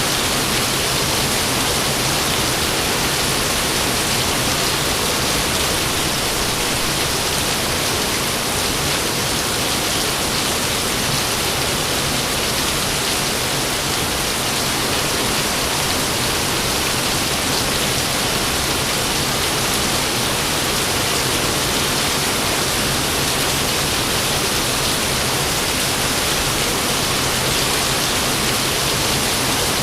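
Steady rain falling, an even unbroken hiss with no thunderclap.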